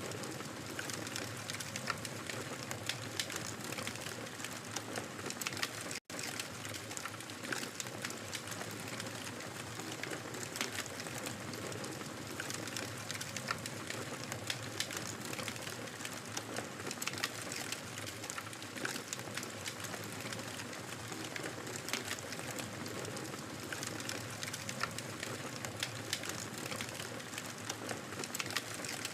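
Wood fire crackling in a fireplace: a steady hiss with many small, sharp pops and snaps scattered throughout. The sound cuts out for a split second about six seconds in.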